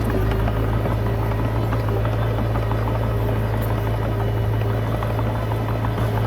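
Komatsu D20P bulldozer's diesel engine running steadily under a constant low drone, with a dense light clatter over it.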